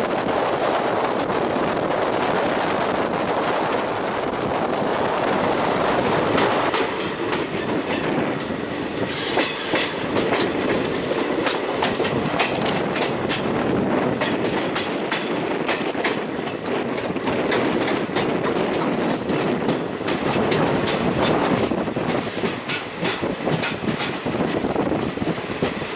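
Passenger train running, heard from an open coach door: a steady rush of wind and rolling wheels, then from about seven seconds in a run of sharp clicks as the wheels go over rail joints and the points of a station loop. Near the end a coal-loaded goods train passes close alongside.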